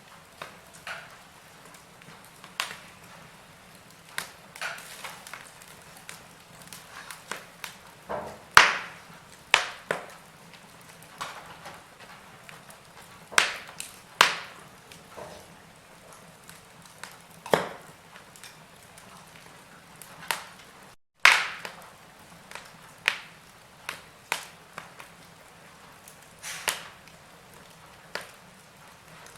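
Wood fire in a fireplace crackling: irregular sharp pops and snaps over a faint steady hiss, the loudest ones about nine, fourteen and twenty-one seconds in. The sound drops out for a split second just before the pop at twenty-one seconds.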